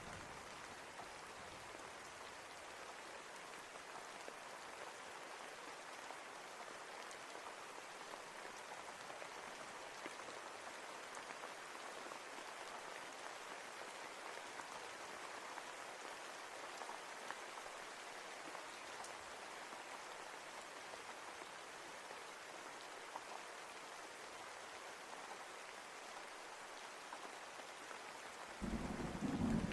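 Steady rainfall hissing evenly. Near the end a low rumble of thunder sets in.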